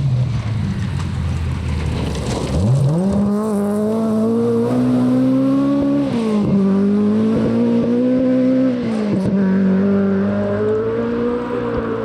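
Rally car engine revving hard as it accelerates away. The pitch climbs steeply about two seconds in, then holds high, dropping briefly twice at gear changes.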